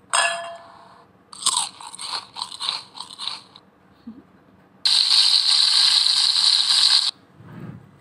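Stock food sound effects in a phone editing app, played back one after another: a single ringing glass clink, then a run of crunchy bites, then a steady hiss lasting about two seconds.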